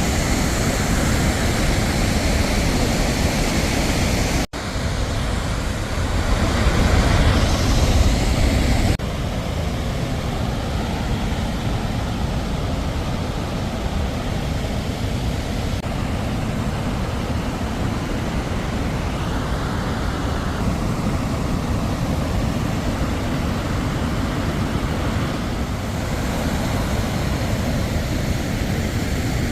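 Tennforsen waterfall rushing, a loud, steady wash of falling water. The sound breaks off for an instant about four and a half seconds in and drops to a slightly quieter, duller rush about nine seconds in.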